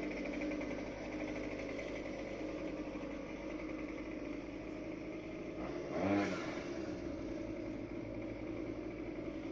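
Small petrol engine of lawn equipment running steadily, with a brief louder swell and a dip in pitch about six seconds in.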